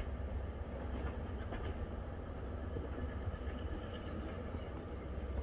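Class 73 locomotive hauling test-train coaches slowly over pointwork, heard from a distance: a steady low rumble with a few faint clicks.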